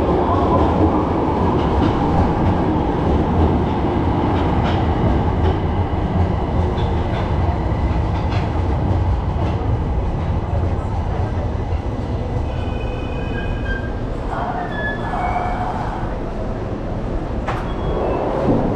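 Train running on rails: a steady low rumble with scattered clicks that eases slightly, a few faint high tones in the second half, and a sharp click near the end.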